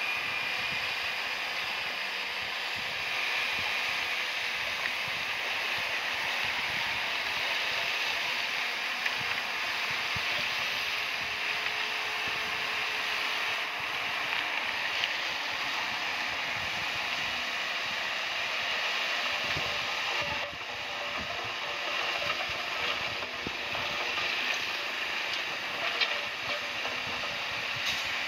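Komatsu crawler bulldozer working, its tracks and running gear giving a steady mechanical clatter with a few sharp clanks.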